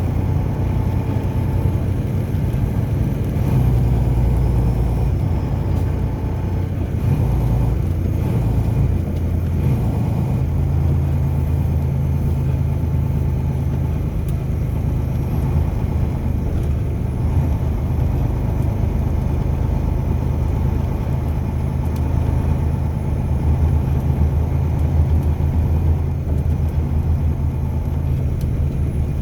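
Car driving on the road: a steady low rumble of engine and tyre noise with no sharp events.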